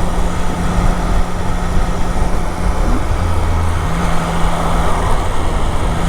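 Triumph Daytona 660's three-cylinder engine running at a steady pace while riding, with wind and road noise over it. The engine note shifts briefly about halfway through.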